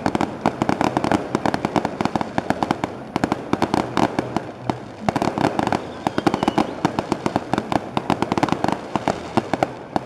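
Fireworks going off in a rapid, continuous barrage of sharp pops and crackles, many every second.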